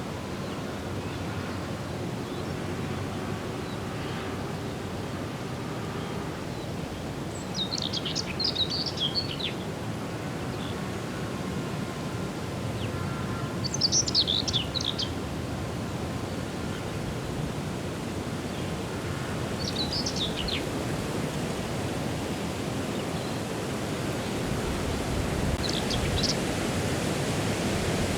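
A songbird sings four short, quick, high-pitched phrases, about six seconds apart, over a steady rushing background noise.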